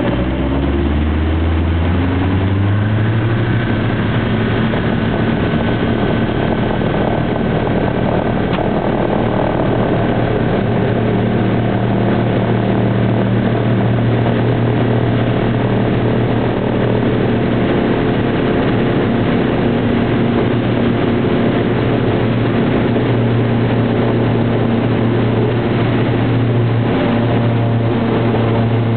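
Airliner engines spooling up to take-off power, rising in pitch over the first few seconds, then a loud, steady drone through the take-off.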